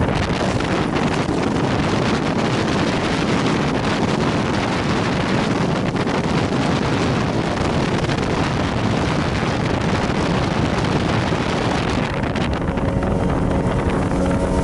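Wind blowing across the microphone aboard a boat at sea: a steady, loud rushing noise.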